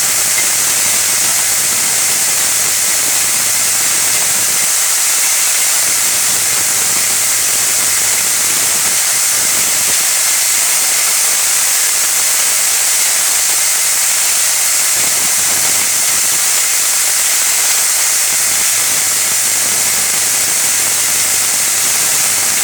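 Steady, unbroken hiss with a faint low hum underneath.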